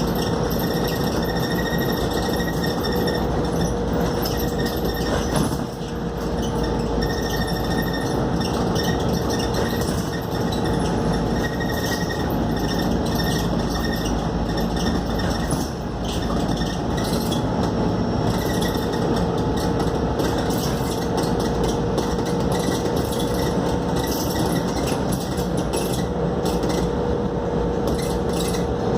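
Cabin noise of a Scania K280UD double-decker bus under way: its engine and the road noise run steadily, with a constant hum and interior fittings rattling and clinking.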